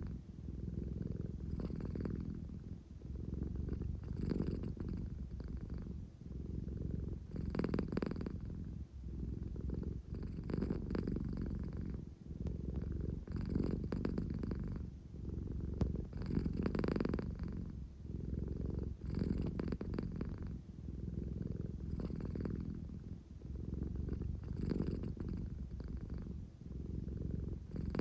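American Shorthair cat purring steadily and deeply, swelling every two and a half to three seconds with each breath. This is the sleepy, affectionate purr of a cat settling down to sleep beside someone.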